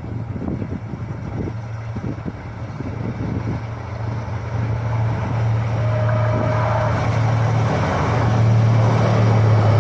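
Class W3 diesel locomotive's engine running with a steady low drone that grows louder as the train approaches. A brief faint tone sounds about six seconds in.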